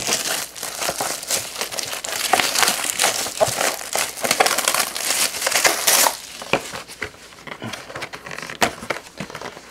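Plastic shrink wrap crinkling and tearing as a sealed trading card box is unwrapped. The crackling is dense for about six seconds, then thins to scattered crackles and clicks.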